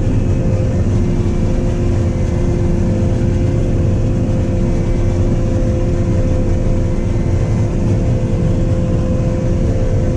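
Combine harvester running steadily, heard from inside the cab: a constant low engine rumble with a steady mid-pitched machine whine over it.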